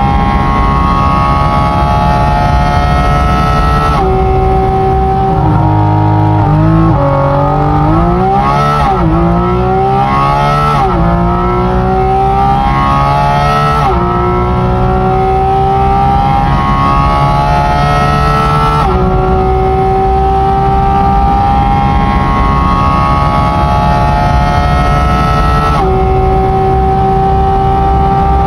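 Porsche 718 Cayman GT4 RS's naturally aspirated flat-six engine running hard at high revs, its pitch climbing slowly and steadily. Between about six and thirteen seconds in, the revs rise and fall quickly several times, and the sound jumps abruptly a few times where passages are spliced together.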